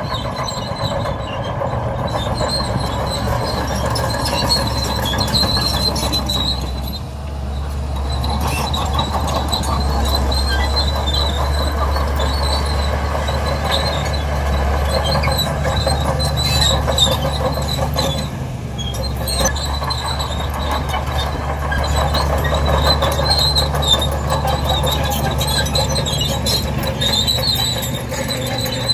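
Bulldozer's diesel engine running steadily while its crawler tracks squeal and rattle. The engine note drops briefly twice, about a quarter and two-thirds of the way through.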